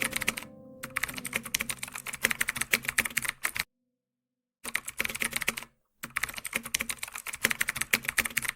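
Rapid clicking of computer-keyboard typing in three runs, broken twice by sudden dead-silent gaps.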